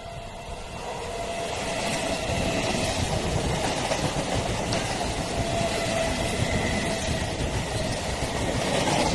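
Suburban electric multiple-unit local train passing close by: a steady rumble of wheels on rail that builds over the first couple of seconds as the coaches come alongside, then holds.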